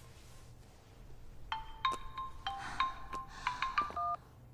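Mobile phone ringtone: a marimba-like melody of short struck notes that starts about a second and a half in and cuts off suddenly near the end, as the call is answered.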